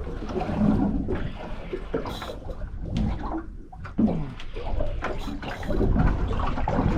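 Water sloshing and splashing unevenly, with irregular bumps and swells in level.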